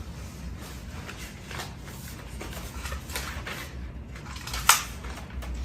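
Light clatter of small clicks and knocks, with one sharp, louder click near the end, over a low hum of room noise.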